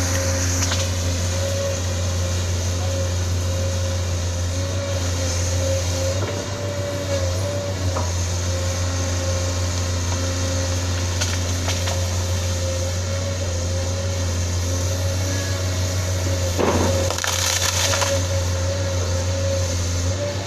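Sunward SWE210 excavator's Isuzu 6BG1 six-cylinder diesel running steadily under load, with a steady whine over the engine note. A louder crunching burst comes near the end.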